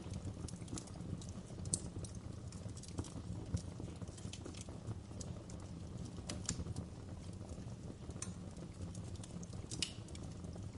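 Wood fire crackling in a fireplace: irregular sharp pops and snaps over a steady low rumble of the flames, with a louder pop about two seconds in and another near the end.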